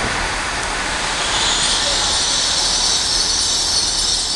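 Great Western Railway Intercity Express Train running through a station platform at speed: a steady rush of wheels on rail and air. A brighter hiss comes in about a second in as the last carriages and rear cab go by.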